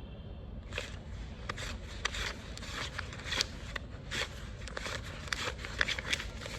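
Crisp paper banknotes being handled and flicked through by hand, a string of short irregular rustles and snaps.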